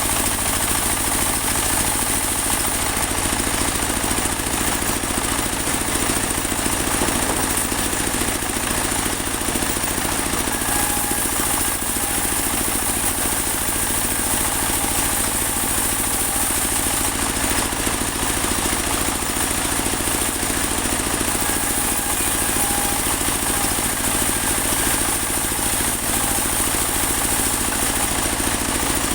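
Engine-driven portable bandsaw mill running steadily, its band blade sawing through a large teak log, with a steady high hiss over the engine.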